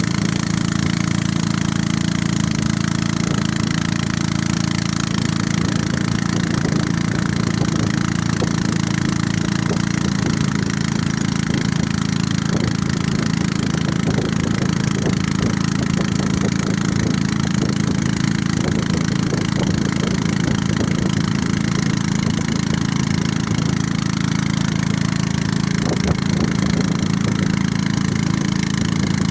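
Small boat's motor running steadily at a constant speed, with a low, even drone and a hiss of spray and wind over it.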